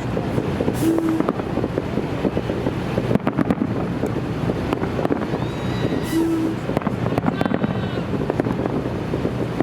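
Holiday fireworks salute going off: continuous crackling and popping with a sharper bang about three seconds in.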